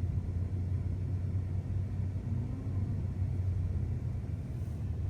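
Steady low rumble of a car driving slowly on a snowy, slippery road, heard from inside the cabin: engine and tyre noise.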